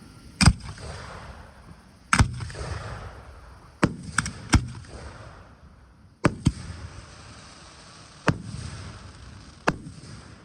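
Aerial fireworks shells bursting: about eight sharp bangs spaced one to two seconds apart, three of them in quick succession about four seconds in. Each bang trails off in a fading rumble.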